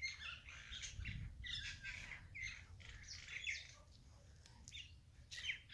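Birds chirping: many short calls in quick succession, some sliding up or down in pitch.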